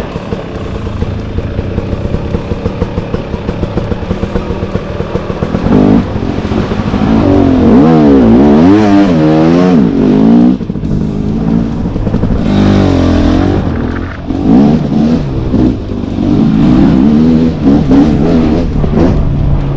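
Husqvarna 300TX two-stroke dirt bike engine running at low revs with an even pulsing for the first five seconds or so, then revving up and down repeatedly as the bike is ridden.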